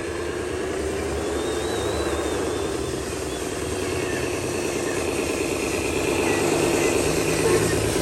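Diesel engine of a heavily loaded truck running steadily, getting a little louder over the last couple of seconds.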